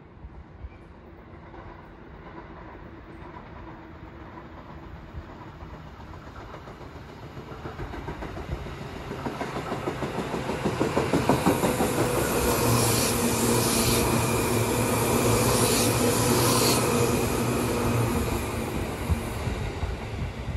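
Seibu 2000-series electric commuter train approaching and passing on a single track. It grows louder from about a third of the way in, with its wheels clacking over the rail joints, and is loudest with a steady hum and hiss as it runs past. It eases off near the end.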